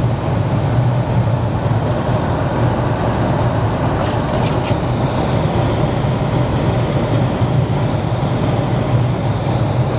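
Steady road noise inside a small car's cabin: engine and tyres running on a snow-covered road.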